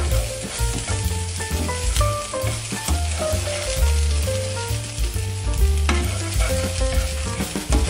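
Diced chicken and capsicum sizzling as they fry in butter in an aluminium pot, stirred and scraped with a silicone spatula, over background music with a steady bass.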